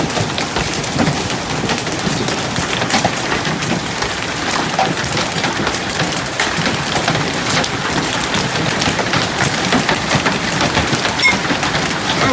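Heavy hailstorm: large hailstones falling hard, a dense steady clatter full of sharp individual hits.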